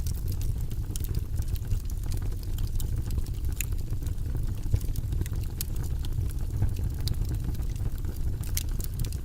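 Wood fire burning in a fireplace: irregular sharp crackles and pops scattered over a steady low rumble of the flames.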